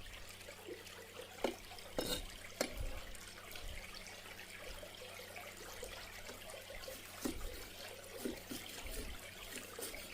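Water trickling steadily, with a few sharp knocks in the first three seconds and softer taps after: a knife chopping meat on a cutting board.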